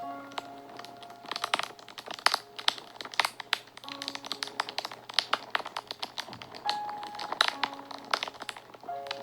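Fire crackling with frequent irregular sharp pops, over soft background music with slow held notes.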